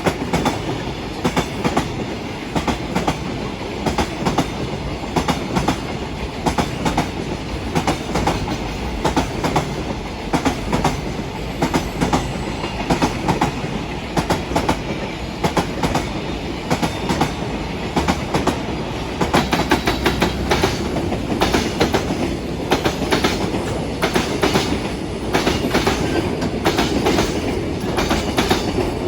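A train passing close by, its wheels clattering in a steady run of clicks over rail joints, growing louder about two-thirds of the way through.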